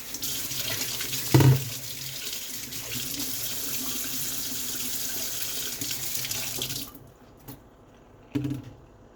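Water running from a tap, with a thump about a second in. The flow cuts off about seven seconds in, and a short knock follows near the end.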